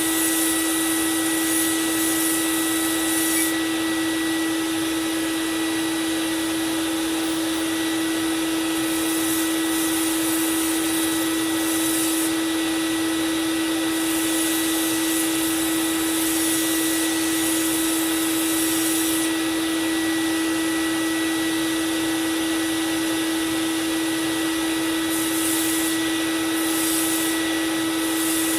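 Belt sander motor running steadily with a constant hum. A steel knife blade is ground against the belt in several passes of a few seconds each, and each pass adds a high grinding hiss.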